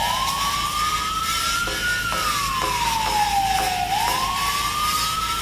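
A siren wailing in two slow rise-and-fall sweeps over a steady noisy rumble. It starts abruptly, as a sound effect laid over the scene.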